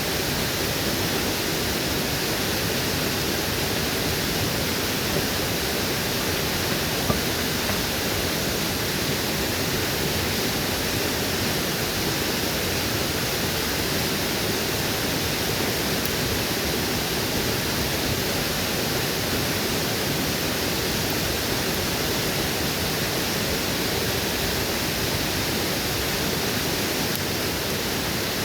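Waterfall rushing in a steady, unbroken wash of water noise, with a single brief click about seven seconds in.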